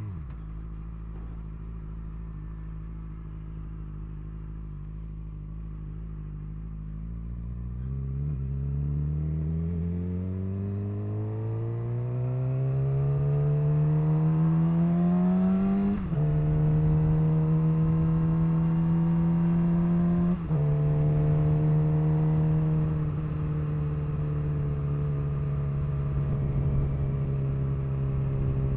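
2007 Suzuki GSX-R600's inline-four engine through a straight-pipe exhaust, crazy loud. It runs low and steady, then pulls up in a long rising rev. Two quick upshifts follow, each a short break with a small drop in pitch, before it settles into a steady cruise.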